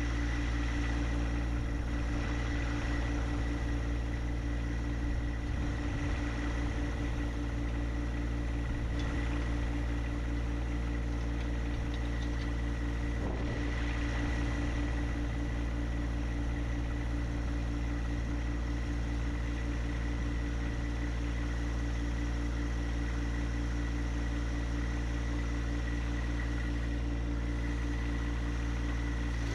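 An engine running at a steady speed, a constant hum with no change in pitch or level.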